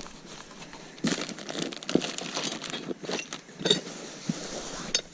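Packing material rustling and crinkling as sawmill parts are lifted out of a cardboard box, with occasional light knocks and clinks of metal parts.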